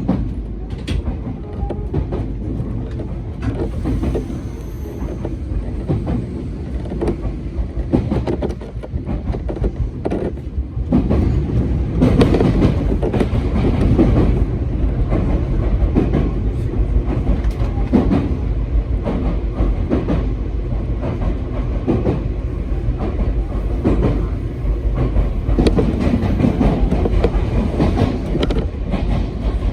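Hakone Tozan Railway train running along the track, a steady rumble with the clickety-clack of wheels over rail joints, growing louder about eleven seconds in.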